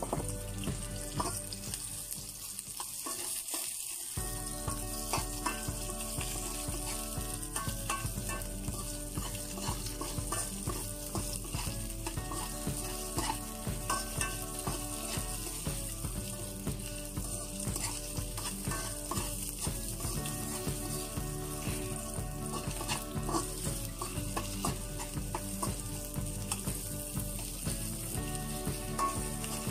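Garlic and chopped onion sizzling as they sauté in an aluminium wok, with a metal spoon scraping and clinking against the pan as they are stirred.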